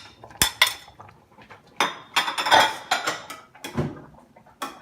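Kitchen utensils clinking and scraping against a pot and dishes as softened rice noodles go into simmering chicken broth. A couple of sharp clinks come in the first second, then a busier stretch of clattering and scraping, and a few more knocks near the end.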